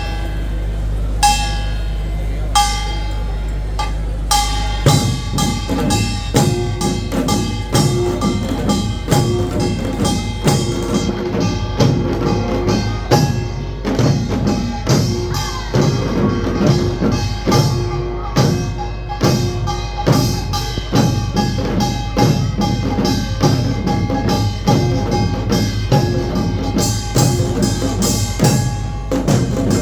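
Chinese-style percussion music. It opens with a few ringing metallic strikes spaced a little over a second apart. From about five seconds in it becomes a fast, steady beat of drum and clashing metal strikes over ringing tones, the kind that accompanies a lion dance.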